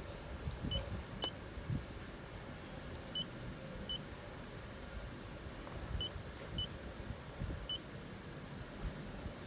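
Short, high electronic beeps, about seven of them at irregular spacing: the key-press beeps of a handheld OBD2 scan tool as its menus are stepped through.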